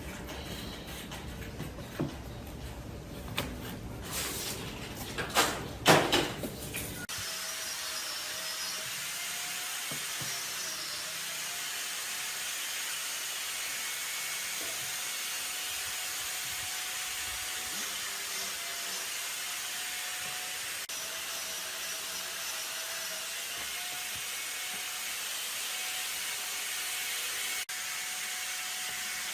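Woodworking sounds: irregular knocks and sharp hits on wood for the first several seconds, then an abrupt change to a power tool running steadily on wood, with a faint whine that wavers slightly in pitch.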